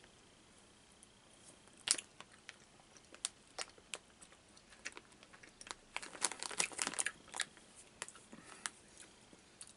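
Quiet, scattered clicks of chewing a sugar-coated sour gummy worm. A flurry of plastic candy-bag crinkling comes about six to seven seconds in.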